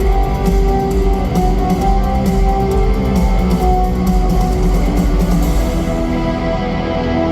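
Rock band playing live at concert volume: distorted electric guitars over bass and drums.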